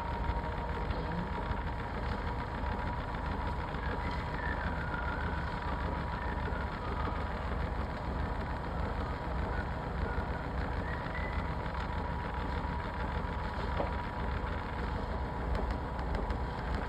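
Washing machine running: a steady low hum and rumble, with a thin steady whine that fades out about twelve seconds in.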